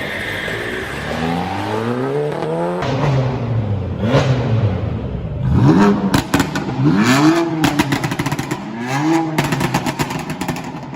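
Modified car engine revving hard. It climbs in pitch in steps, then gives several rev blips that rise and fall, with a run of sharp cracks through the middle of the revving.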